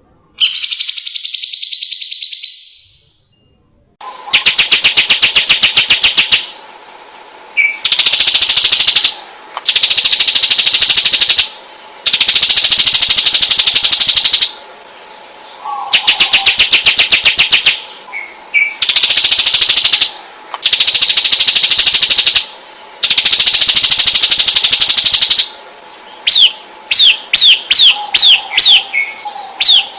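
Recorded songbird song of the kind used as master song for white-rumped shamas. A short call opens it, then long, fast, buzzing trills come in blocks of about two seconds with short breaks. Near the end the song turns into a quick run of downward-sweeping whistles, about two a second.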